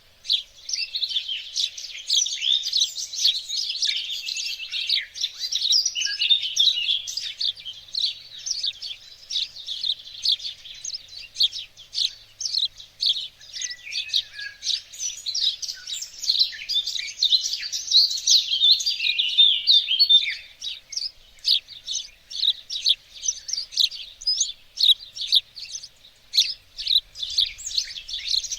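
Small songbirds chirping and singing, a busy run of overlapping high chirps and trills that thins to quick separate chirps in the later part.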